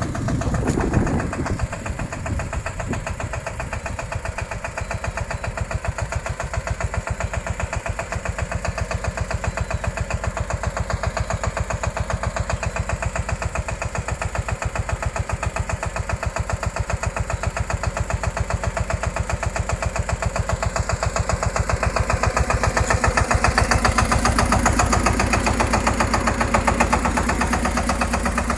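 Small tractor engine running with a steady, rapid chugging beat after a louder burst in the first second or so; it grows louder and deeper from about 22 seconds in.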